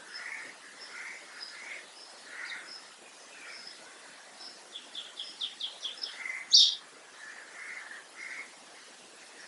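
Small birds chirping: short high calls repeated every half second or so, a quick trill of about eight notes about five seconds in, then one loud, sharp high chirp.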